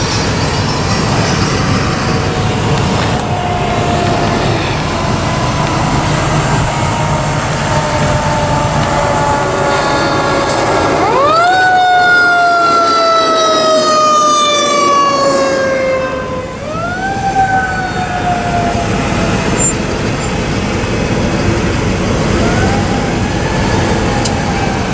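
Fire engine's Federal Q mechanical siren coasting down in pitch. It is wound up sharply about halfway through, then twice more with shorter pulls, each time winding back down slowly. Underneath is the truck's steady engine and road noise.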